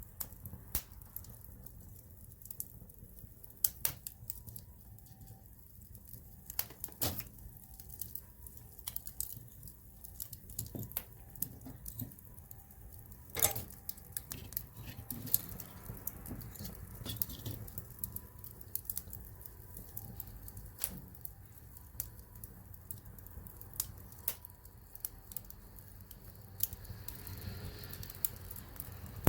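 Wood campfire crackling: irregular sharp pops and snaps from the burning wood, one louder pop about halfway through, over a low steady rumble of the flames.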